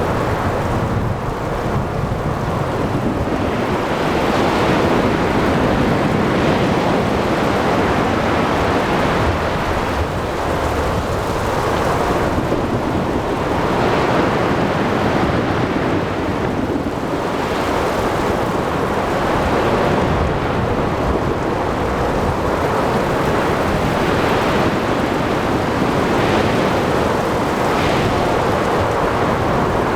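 Thunderstorm over the sea: steady heavy rain and wind with rolling thunder and surf, the noise swelling and easing every few seconds.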